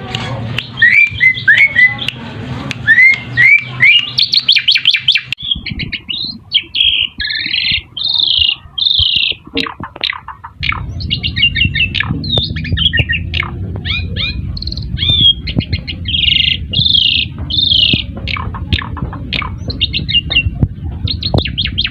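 Asian pied starlings (jalak suren) calling: a series of short rising whistles, then loud harsh chattering notes and quick whistled phrases. About halfway through, a steady low hum sets in under the calls.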